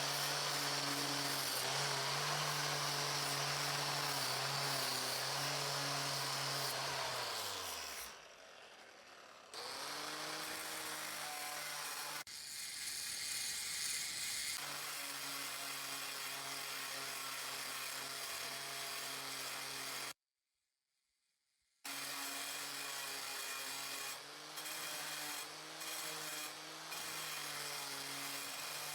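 Electric power tool motor running while abrading the blade, a steady hum under a rough scraping noise. The motor spins down about eight seconds in and starts up again, and the sound cuts out completely for about two seconds near twenty seconds.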